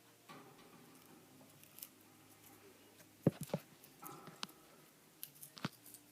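Cockatiel nibbling and tearing spinach leaves with its beak: irregular small clicks and crunches, the sharpest ones coming in the second half.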